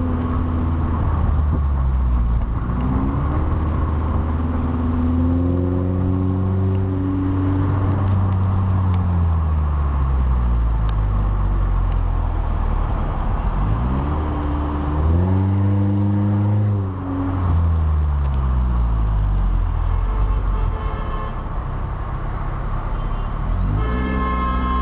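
BMW 316 running through its remote-controlled exhaust with the valve opened, the engine note climbing twice as the car accelerates and dropping back in between. Near the end a separate high, multi-toned sound sets in.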